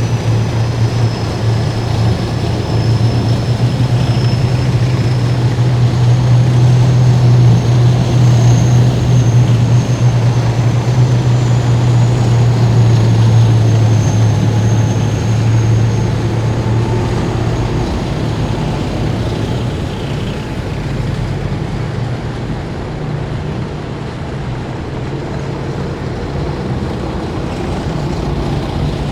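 Heavy military vehicles in a parade column driving past at close range, their engines making a loud, steady low drone with a thin high whine above it. The drone shifts to a slightly higher pitch and eases a little about two-thirds of the way through as vehicles change.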